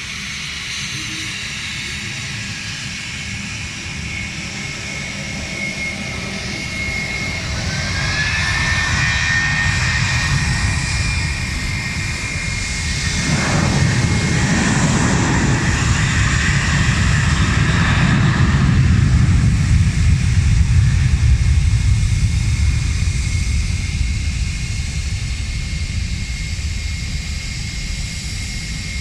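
Jet airliner on the runway: a high engine whine builds, then about halfway through a loud low roar swells and slowly fades away.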